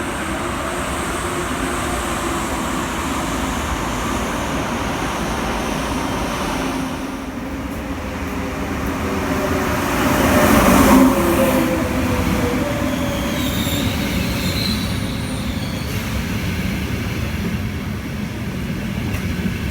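A train running through on the rails, its wheels squealing, loudest about ten to eleven seconds in.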